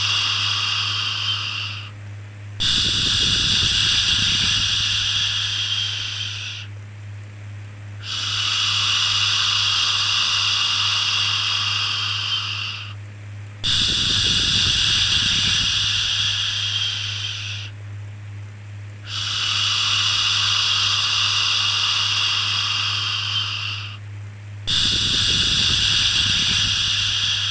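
A shushing 'shhh' sound for soothing a baby, repeated about every five and a half seconds; each shush lasts about four seconds and tapers off. A steady low hum runs underneath.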